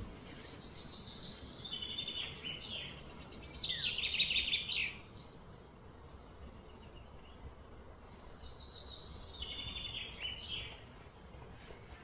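A songbird singing two bouts of fast, trilled chirping phrases, the first and louder about two seconds in, the second shorter near the end, over a steady low outdoor background noise.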